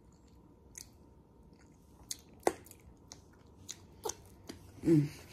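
Close mouth sounds of a person eating a pan-seared boiled egg and licking sauce off her fingers: scattered wet clicks and smacks. A brief voiced sound comes near the end.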